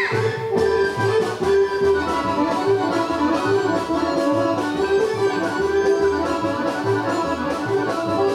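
Live folk orchestra playing a Šumadija dance tune with a steady, even beat.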